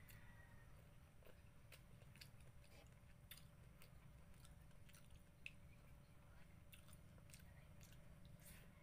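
Faint chewing and soft mouth clicks of a person eating fish picked off the bone by hand, scattered irregularly over a low steady hum.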